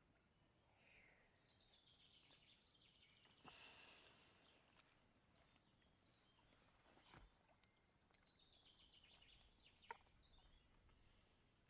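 Near silence with faint outdoor ambience: a distant bird gives two trills that slide down in pitch, one about a second in and one near the end, with a few soft sharp clicks between them.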